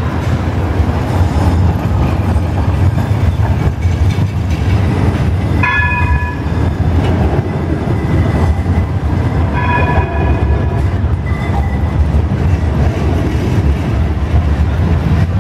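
Bombardier Flexity Outlook trams running with a steady low rumble. Twice, about four seconds apart, a short tonal warning signal sounds.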